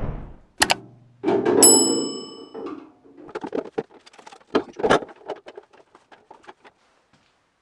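A metal part struck or set down with a clang that rings on for about a second, followed by a run of small metallic clicks and rattles that die away.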